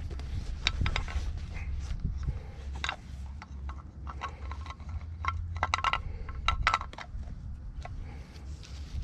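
Metal brake parts and hand tools clinking and scraping as they are handled, a scatter of sharp ringing clinks that come thickest about five to seven seconds in, over a steady low hum.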